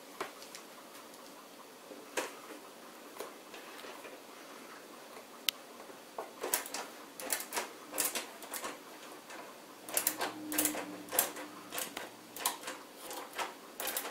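Screwdriver driving the power supply's mounting screws into the back of a PC case: scattered clicks at first, then rapid irregular metal clicks and taps from about halfway through.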